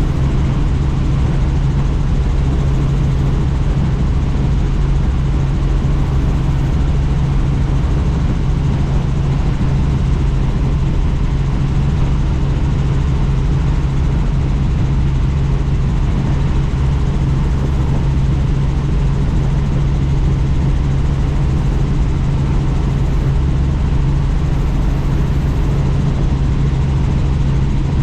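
Helicopter in flight heard from inside the cabin with the doors open: a steady drone of rotor and turbine engine, with a low rush of wind under it, unchanging throughout.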